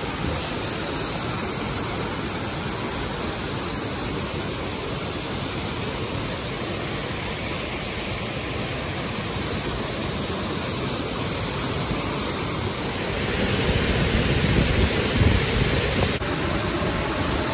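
Waterfall and river water rushing steadily, louder and deeper for a few seconds near the end.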